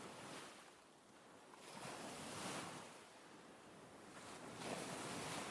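Recorded ocean surf, waves washing in and drawing back in soft swells about every two seconds.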